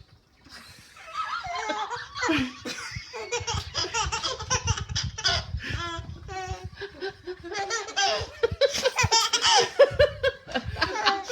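A little girl laughing hard in repeated bursts after tasting sour lemon juice, starting about a second in.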